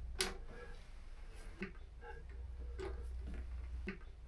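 A series of light clicks at uneven spacing, about half a second to a second apart, over a steady low hum.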